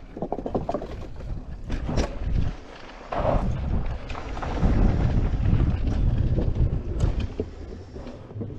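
Wind buffeting the microphone during a mountain-bike ride on a rough trail: an uneven low rumble, loudest in the middle, with a few sharp knocks, one about two seconds in and another near the end.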